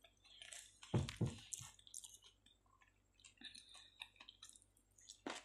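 A person eating close to the microphone, chewing with wet smacking mouth clicks as a forkful of potato goes into the mouth. A brief louder thump comes about a second in.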